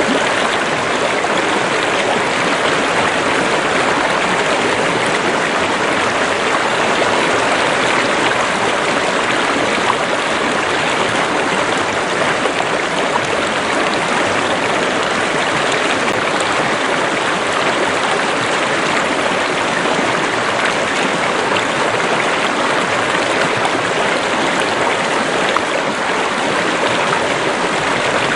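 Stream water running and splashing in a steady, unbroken rush.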